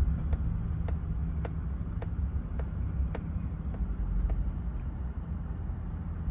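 Vehicle engine idling with a steady low rumble, and an even ticking about twice a second that fades out about four seconds in.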